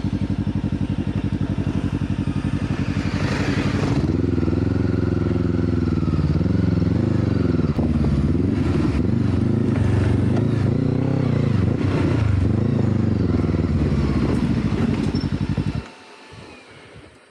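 Motorcycle engine running steadily, then revved up and down again and again for about twelve seconds, before cutting off suddenly near the end.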